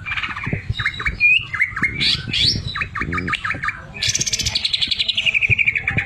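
Greater green leafbird (cucak ijo) singing a quick string of varied whistled and chattered notes. About four seconds in it breaks into a fast trill of repeated notes that slides down in pitch for about two seconds.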